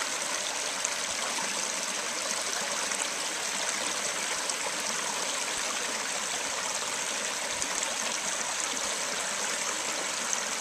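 Stream water flowing over its bed, a steady rushing and trickling.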